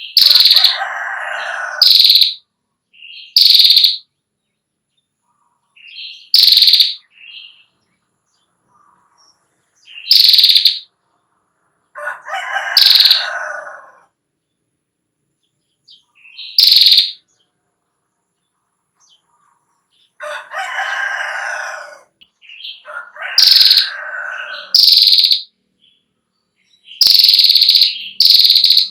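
Female prinia (prenjak klawu) calling: repeated short, sharp high notes, several times broken by a buzzy trill that lasts about two seconds, the long 'ngetir' chatter.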